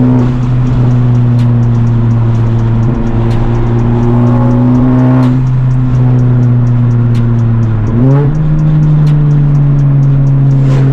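Modified Honda Civic Type R turbocharged four-cylinder, with catless downpipe and resonator-delete exhaust, running at a steady cruise with an even drone. About eight seconds in, the revs climb quickly and hold at a higher steady pitch.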